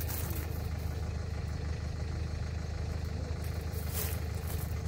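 Car engine idling: a steady low hum, with a brief rustle about four seconds in.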